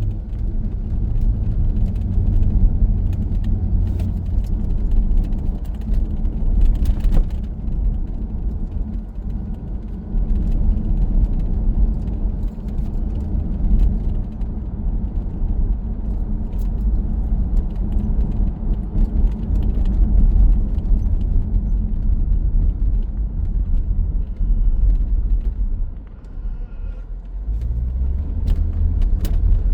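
Inside the cabin of a 2002 C5 Corvette under way: a steady low rumble from its 5.7-litre V8 and the road, with the electric exhaust cutout valves closed so the exhaust runs through the Magnaflow mufflers. Near the end the level drops briefly, then the engine note rises as the car pulls again.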